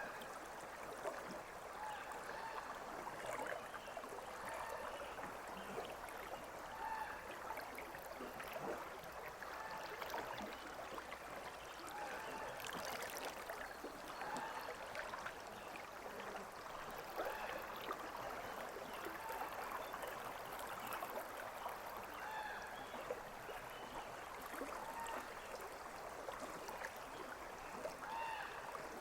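River water running steadily: a continuous wash with many small bubbling notes throughout.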